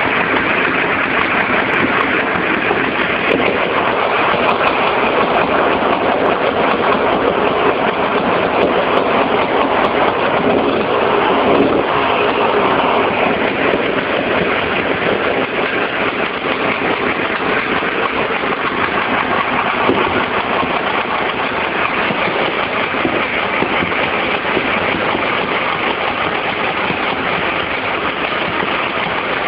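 Husqvarna SM 125 S two-stroke single-cylinder engine running steadily, swelling briefly in level about ten to thirteen seconds in, heard harsh and muddy through a mobile phone's microphone.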